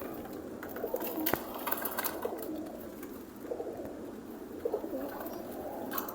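Pigeons cooing, several low rising-and-falling coos one after another, with a few sharp clicks among them.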